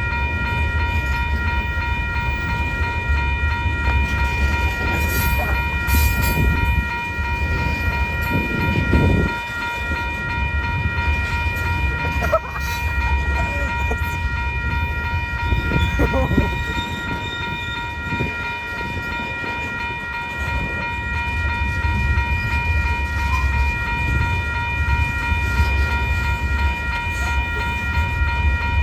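Freight train cars rolling past with a steady low rumble, and a constant high-pitched whine running over it.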